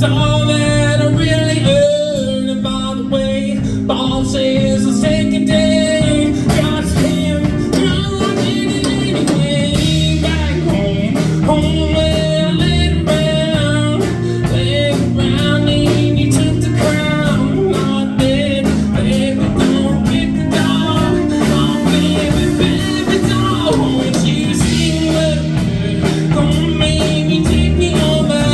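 Live music: a singer performing a blues-country song over guitar accompaniment.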